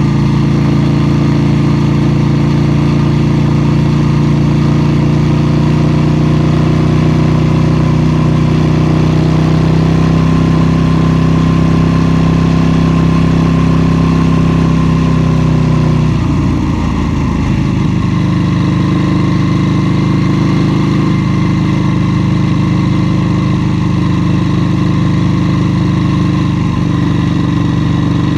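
KTM 790 Duke's parallel-twin engine pulling under way, its pitch creeping slowly up for about sixteen seconds. Then the revs fall away over a second or two and the engine settles to a steady note again.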